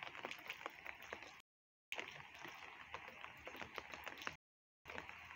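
Faint patter of light rain: scattered drop ticks over a soft hiss, cut twice by half-second gaps of dead silence.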